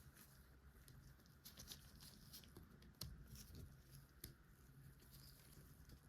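Faint handling sounds of plastic LEGO pieces: light rustling with scattered small clicks, the sharpest about three seconds in and again just after four seconds.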